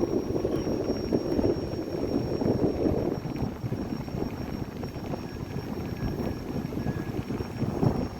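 Wind buffeting the microphone: a gusty, uneven low rumble that swells and dips.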